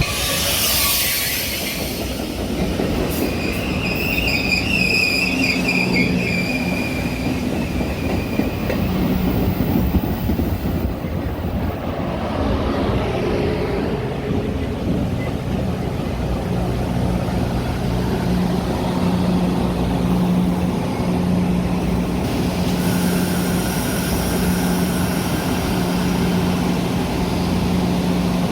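Metra commuter train moving through a station, with a short hiss at the start, steel wheels squealing on the rails about four to eight seconds in, and a steady low drone underneath.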